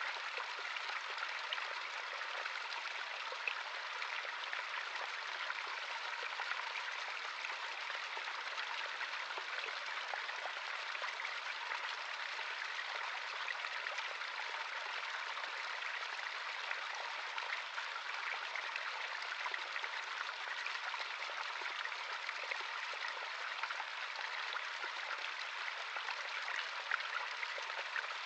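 Small stream running, a steady splashing trickle of water with fine droplet ticks and no deep rumble.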